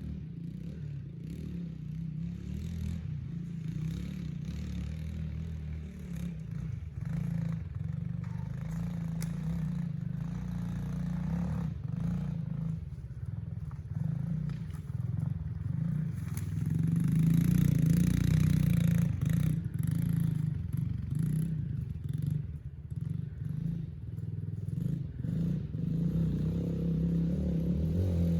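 Yamaha TT-R110 pit bike's small four-stroke single-cylinder engine running through an obstacle course, the engine note rising and falling with the throttle. It grows louder about two-thirds of the way through as the bike comes nearer.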